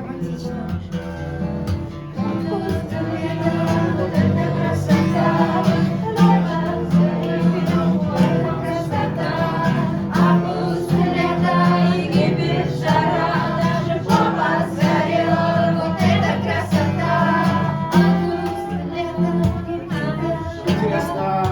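Song sung to guitar accompaniment, the voice or voices moving in phrases over steady plucked chords.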